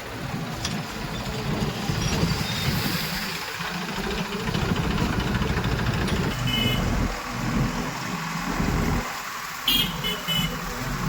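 Heavy diesel earthmoving machinery running, its low engine note rising and falling under load. Short high-pitched beeping tones come through about six and a half seconds in and again near the end.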